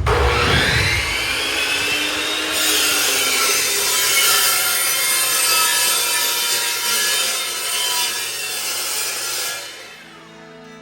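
Power saw cutting metal tubing for suspension link bars: the motor spins up with a rising whine, then cuts with a loud, hissing screech for about seven seconds and winds down near the end.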